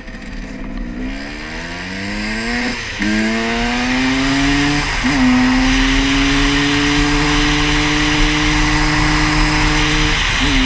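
Kawasaki dirt bike engine accelerating through the gears: the pitch climbs and drops back at gear changes about three and five seconds in, then holds nearly steady at cruising speed, with one more brief dip near the end.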